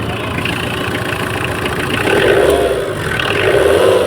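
Tata Indica V2's engine running, driving the repaired alternator that is charging the battery; its note wavers up and down slightly from about two seconds in.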